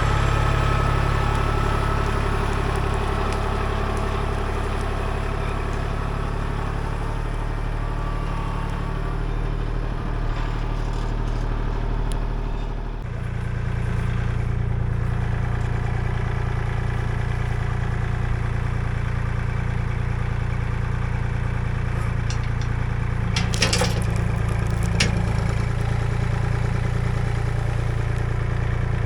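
A vehicle engine running steadily, its tone shifting abruptly about halfway through, with a few brief clatters near the end.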